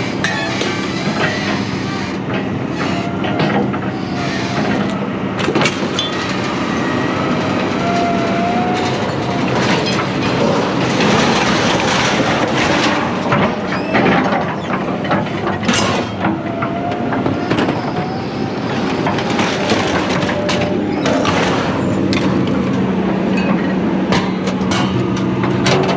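Heavy steady mechanical rumble with a low hum, with metal clanking again and again and a few brief metal squeals.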